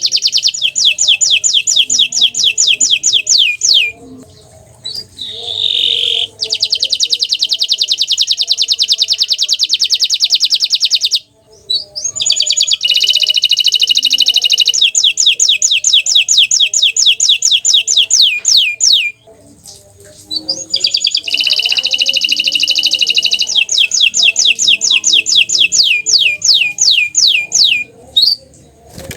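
Green domestic canary singing: long phrases of fast trills of repeated high notes, broken by short pauses of one to two seconds.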